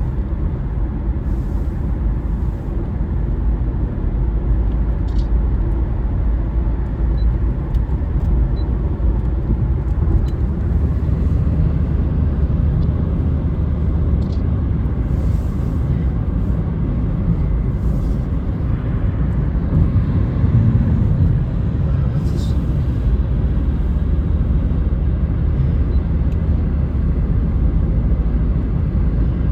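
Steady low rumble of road and wind noise from a car driving at speed on a highway, with a few faint ticks now and then.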